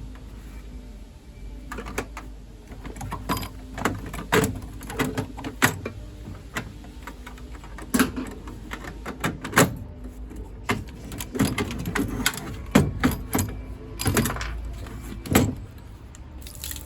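Irregular metallic clicks, knocks and rattles of combi boiler parts being handled and worked loose during dismantling.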